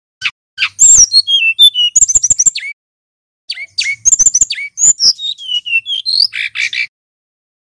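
Male brown-chested jungle flycatcher singing two phrases with a short pause between them. Each phrase is a run of clear whistled notes sliding down in pitch, mixed with quick chattering clicks.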